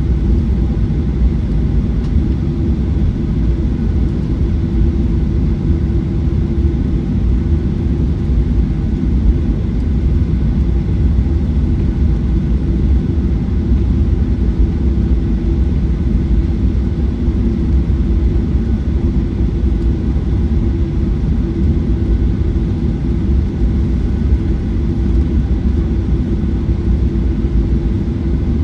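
Steady engine hum and low rumble of a Boeing 737-900ER's CFM56-7B engines, heard inside the passenger cabin, with a faint steady tone and no rise in power.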